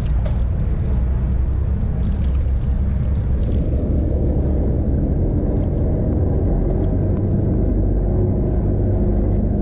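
Steady low rumble of wind buffeting and road noise on a chest-mounted GoPro's microphone while riding a bicycle.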